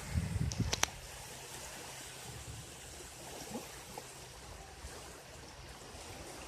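Small sea waves lapping and trickling on the shore, a steady wash of water. A few thumps and sharp clicks in the first second.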